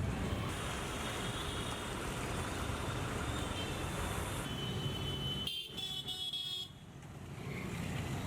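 Street traffic running steadily, with car horns tooting now and then. Past the middle the sound cuts abruptly, dips quieter, then builds back up.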